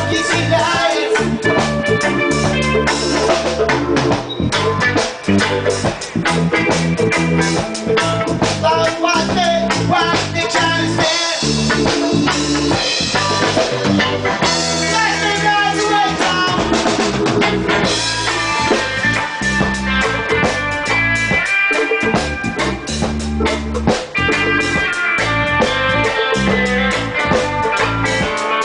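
Live reggae band playing: drum kit with rimshots on the snare and a bass drum, over bass and guitar.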